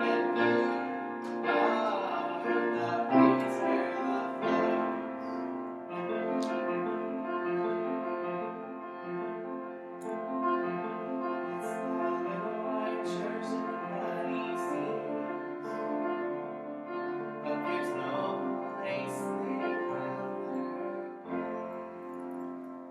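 Slow piano or keyboard music: sustained chords that change every second or so, growing softer near the end.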